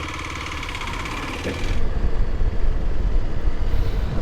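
Single-cylinder engine of a Kawasaki KLX300 dual-sport motorcycle running. About two seconds in it turns louder, with a heavy low rumble and less high-pitched sound.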